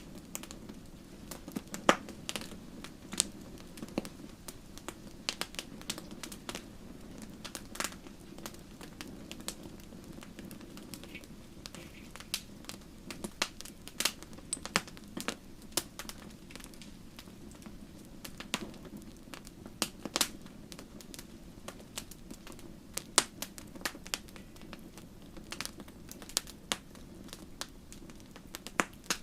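Wood fire crackling in a fireplace: irregular sharp snaps and pops, several louder ones, over a steady low hiss of the burning logs.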